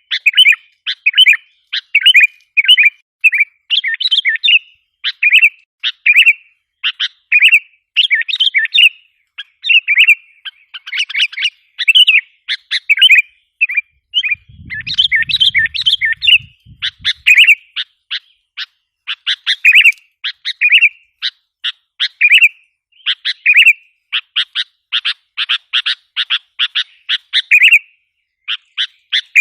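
Sooty-headed bulbul (kutilang) calling continuously in quick, bubbly chirping phrases with short gaps, played as a lure call to excite wild bulbuls. Near the end it breaks into a fast run of harsh chattering notes.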